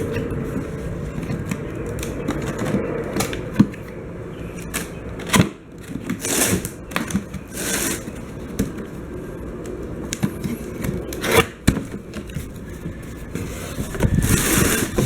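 Handling noises as equipment and packaging are moved about: irregular clicks, knocks and scrapes, with bursts of rustling about six seconds in and again near the end.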